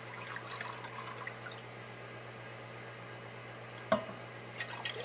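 Duck broth being added to a pot of soup, with small drips and splashes of liquid, a sharp knock about four seconds in, and a steady low hum underneath.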